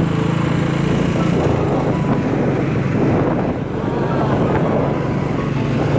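Motorcycle engine running on the move, with wind buffeting the microphone; the engine's steady tone fades after about a second and a half, leaving mostly wind and road noise.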